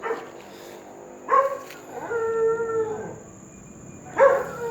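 A dog barking and howling: a sharp bark about a second in, a drawn-out howl held at a level pitch for about a second, and another bark near the end.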